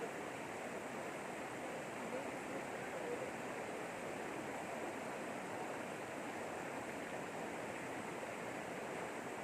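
River water rushing steadily, an even noise without breaks.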